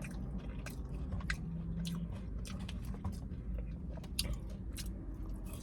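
A person chewing food close to the microphone, with scattered crunches and short wet mouth clicks.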